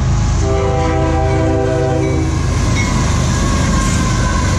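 CSX freight locomotive's air horn sounding one long blast, from about half a second in until about two and a half seconds in, over the heavy rumble of diesel locomotives passing close. The rumble carries on after the horn stops.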